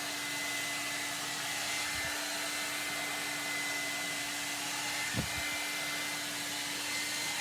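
Ionic hair dryer blowing steadily, a constant rush of air with a low hum and a faint high whine from its motor. A brief knock about five seconds in.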